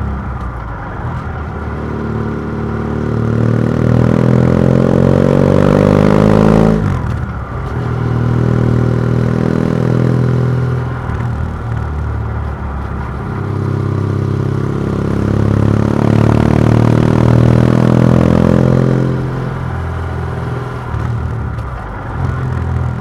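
BMW F700GS parallel-twin engine through a MIVV Oval titanium exhaust with the dB killer removed, under way and accelerating. The revs climb for about six seconds, fall sharply, then climb again and ease off a few seconds before the end.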